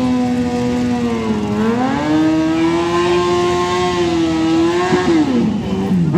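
Drag-racing motorcycle engine running at high revs. Its pitch dips, climbs about two seconds in and holds steady for roughly three seconds, then drops near the end.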